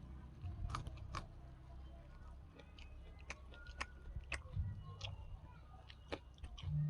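Close-miked chewing and biting, with scattered sharp mouth clicks over a low rumble.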